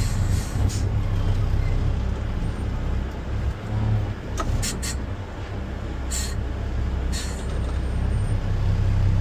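Front-load garbage truck's diesel engine running steadily, with several short hisses of air about four and a half, six and seven seconds in.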